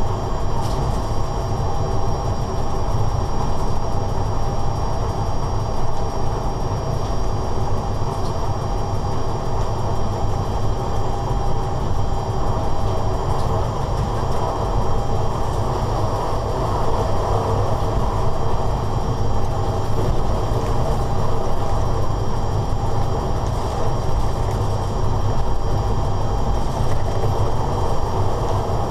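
Locomotive running steadily at speed, heard from inside its driver's cab: an even rumble of wheels and running gear with a constant low hum and a few faint high whines.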